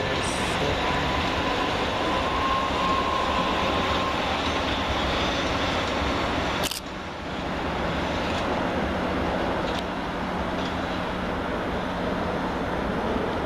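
Southern Class 377 Electrostar electric multiple unit, three units coupled, running through the station with a steady rolling rumble. There is a sharp click about seven seconds in with a brief dip in the noise.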